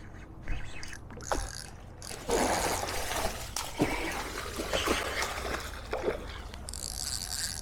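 Water splashing and trickling close by, with several sharp knocks, while a hooked snook is being fought from a kayak.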